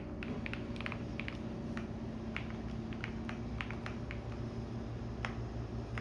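Typing on a computer keyboard, quick irregular keystrokes, over the steady low hum of a running washing machine.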